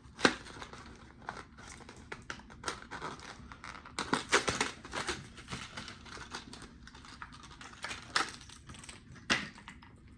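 Plastic lure packaging being opened and handled: crinkling with scattered sharp clicks and taps, the loudest just after the start, around four seconds in, and near the end.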